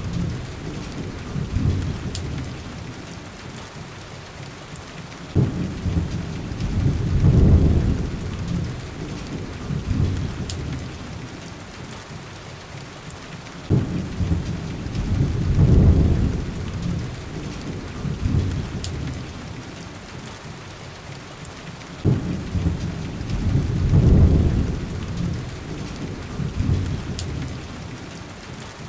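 Steady heavy rain with deep thunder rumbles about every eight seconds, each starting with a sudden crack and swelling for a couple of seconds before fading. The pattern repeats at identical spacing, like a looped recording.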